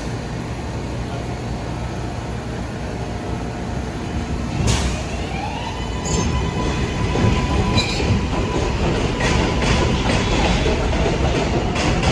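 New York City Subway R142-type train running on the rails with a steady rumble. A sharp clank comes a little before the middle. The motors then give a whine that rises in pitch and holds steady, and quick wheel clicks over rail joints follow near the end.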